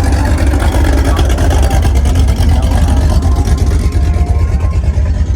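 Loud, steady low rumble of a car engine and exhaust running close by, with no clear rise or fall in revs.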